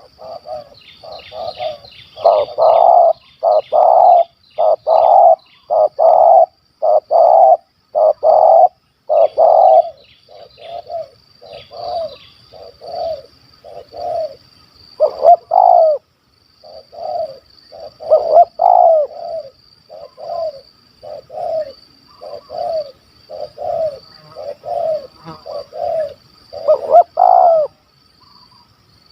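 Spotted dove cooing over and over, a long series of short, deep coo notes in repeated phrases, over a steady high-pitched buzz.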